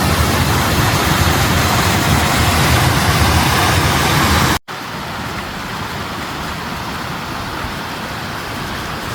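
Steady rush of a waterfall and creek water. It cuts off abruptly about halfway through and comes back quieter.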